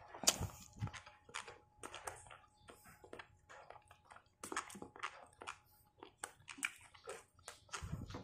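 Close-miked chewing and mouth sounds of someone eating, a string of short, irregular clicks and smacks.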